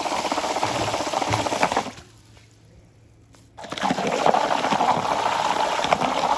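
Water splashing and sloshing in a steady rush. It drops out abruptly for about a second and a half near the middle, then comes back.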